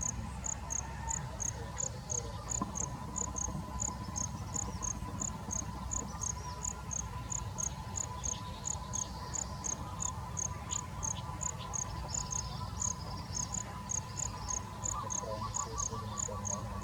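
An insect chirps steadily outdoors, a short high pulse repeating evenly about three times a second, over a low rumble and a faint steady tone.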